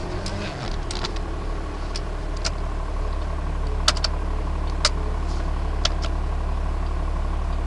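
Dodge 2500's Cummins inline-six turbodiesel running steadily, heard from inside the cab, with a few sharp clicks about a second apart in the middle.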